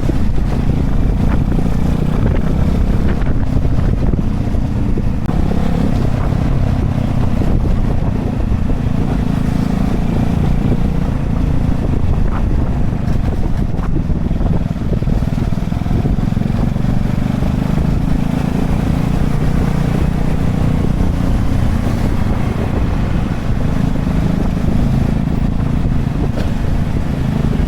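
Honda Chaly minibike being ridden, its small four-stroke single-cylinder engine running steadily under heavy wind buffeting on the microphone.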